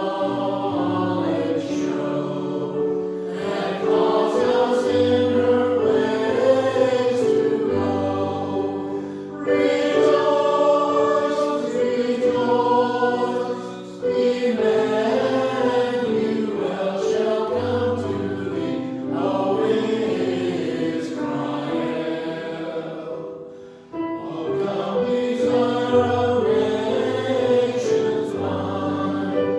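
Choir singing a hymn over sustained accompanying chords, in long phrases with brief breaks between them.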